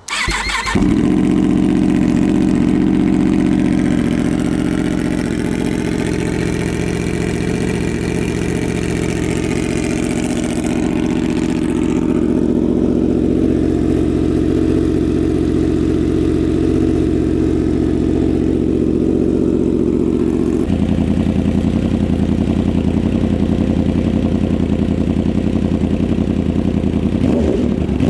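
2025 Yamaha R1's crossplane inline-four starting from cold through a freshly fitted SC Project titanium exhaust: it catches within a second and settles into a steady fast idle. About 20 seconds in, the idle drops a step and runs on steadily.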